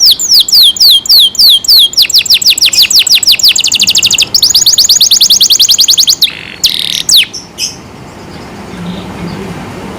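Domestic canary singing: series of rapid, repeated high falling notes, starting at about five a second and quickening into fast trills, then a couple of harsher notes before the song stops about seven seconds in.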